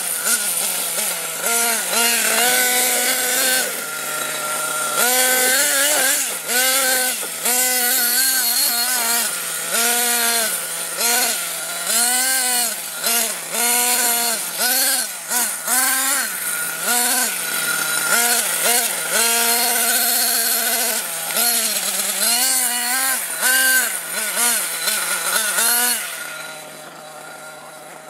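Nitro-engined RC monster truck running with a high, buzzing engine note, the revs rising and falling about once a second under repeated throttle. About two seconds before the end it drops to a quieter, steady note.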